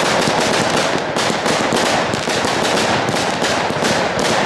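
Fireworks display heard close to the firing site: a fast, unbroken run of launch thumps and shell bursts, several a second, with crackle between them.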